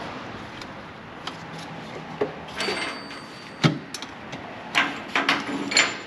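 Metal exhaust parts clanking and knocking as pipes and clamps are handled and fitted, a handful of sharp knocks in two clusters, one with a short metallic ring.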